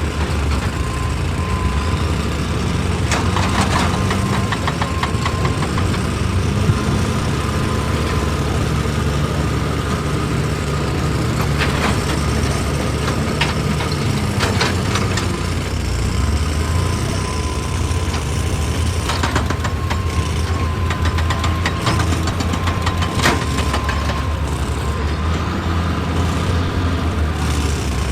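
Excavator's diesel engine running steadily, with a faint steady whine and sharp knocks now and then as rock is struck and cracks.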